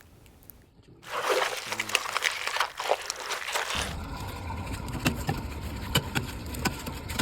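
Wet sloshing and squishing of plumbing glue (PVC cement) being worked with its dauber, with many small sticky clicks, after about a second of near quiet. A low steady hum comes in partway through.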